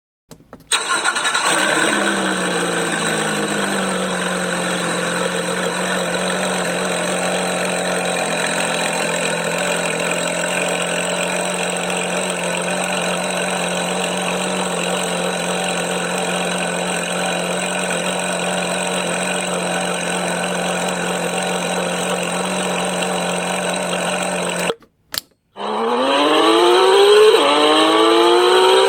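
Porsche 911 GT3 RS flat-six engine starting: it catches with a quick rev that settles within a couple of seconds into a steady idle that runs a long time. After a brief cut, it accelerates hard, pitch rising through a gear with an upshift near the end.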